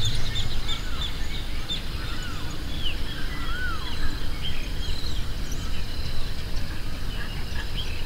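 Small birds calling in scattered short chirps and brief arched notes over steady outdoor background noise.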